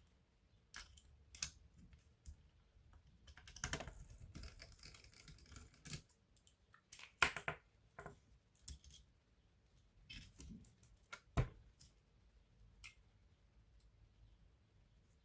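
Irregular small clicks, taps and scraping of laptop parts and tools being handled during disassembly, with a stretch of rustling about a third of the way in and two louder knocks in the middle.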